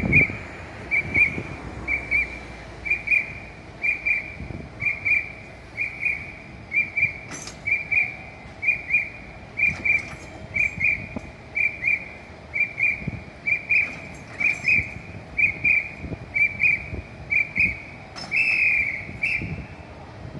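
Electronic warning beeper giving a high double beep about once a second, with one longer, louder beep near the end. A few faint knocks sound over a low steady hum.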